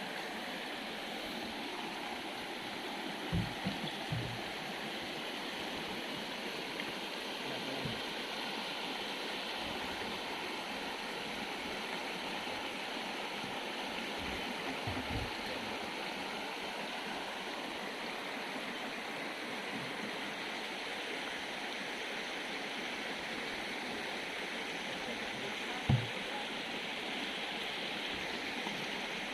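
Forest river water flowing with a steady rushing sound, with a few brief low thumps, the strongest about three seconds before the end.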